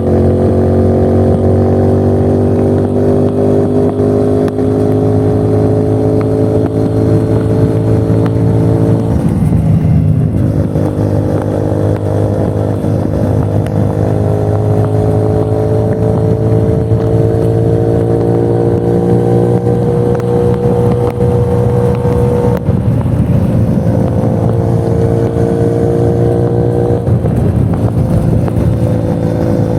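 2024 CFMOTO 450NK's parallel-twin engine running under load while riding. Its pitch climbs slowly and steadily, then falls back sharply about ten seconds in and again twice later before climbing again.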